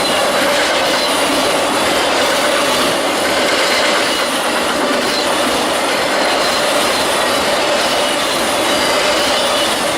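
Train rolling past close by, its wheels running steadily on the rails, with a steady whine from the wheels over the rolling noise.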